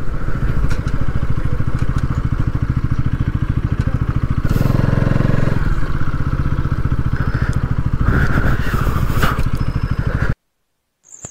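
Bajaj Pulsar NS200's single-cylinder engine running as the motorcycle is ridden, with a louder stretch about halfway through. The sound cuts off abruptly near the end.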